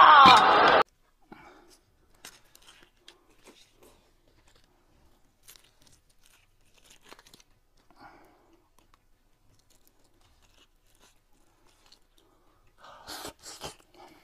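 A loud, brief cry falling in pitch for about a second at the start, then quiet eating sounds: scattered clicks and crunches of chewing, with a louder crunching bite near the end.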